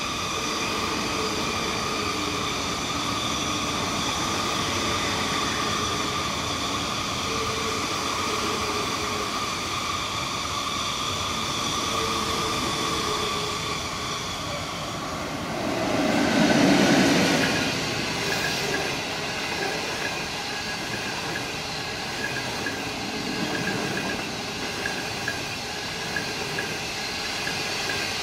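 SS8 electric locomotive hauling 25T passenger coaches passing at speed. A steady high whine grows as it approaches, the locomotive is loudest as it goes by about 16 to 17 seconds in, then the coaches run past with a steady rush of wheels on rail.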